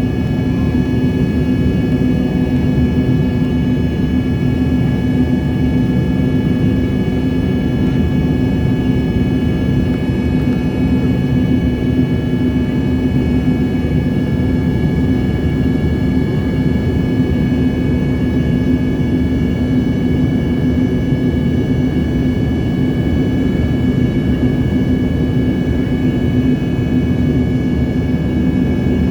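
Airliner engines running steadily: a constant drone with several steady whining tones and no rise or fall in pitch or level.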